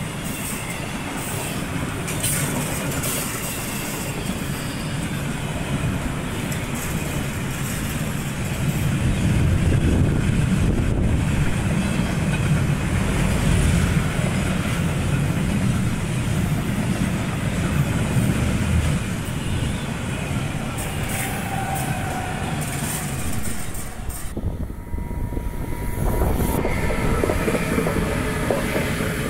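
Freight train of double-deck car-carrier wagons rolling past close by, a steady low rumble with the clatter of wheels on the rails. Near the end the sound breaks off suddenly and an electric locomotive hauling more car carriers rumbles past.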